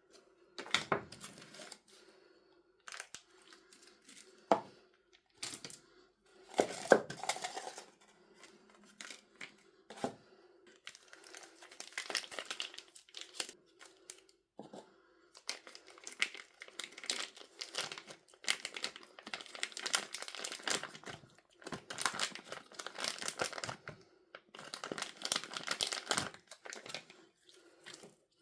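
Packaging being torn open and crinkled by hand, in a run of irregular rustling and crackling spells with short pauses and a few sharp clicks.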